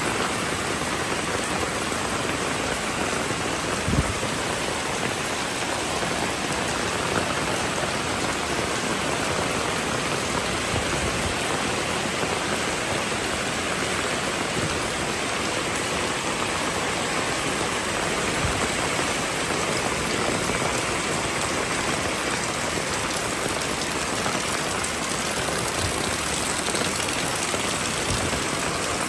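Steady rainfall, an even hiss of rain falling on the street. One soft low thump about four seconds in, with a few fainter knocks later.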